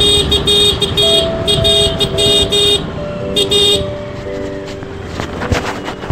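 Vehicle horn honked in a quick series of short repeated blasts, then again briefly, with other horns sounding over steady street-traffic noise.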